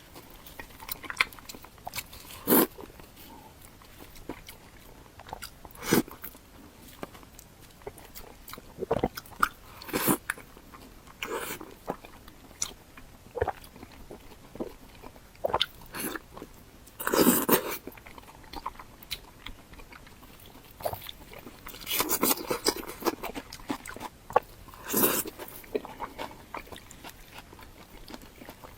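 Close-miked eating sounds: biting and chewing big chunks of meat, irregular mouth clicks and smacks, with a few louder bites past the middle and near the end.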